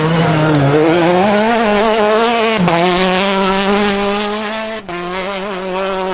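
Rally car engine running hard at high revs. The note drops abruptly about two and a half seconds in and breaks again near five seconds, then holds steady.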